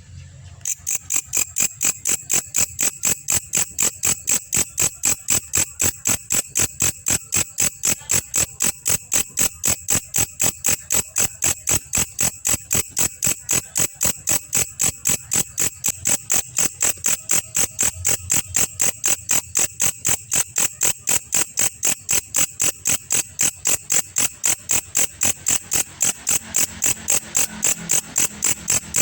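A belalang kecek insect calling: a steady run of sharp, high chirps at about three a second, starting under a second in.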